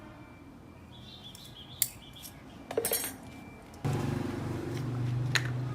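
Small metal parts clinking and tapping a few times. About four seconds in, a steady low hum starts abruptly and keeps going.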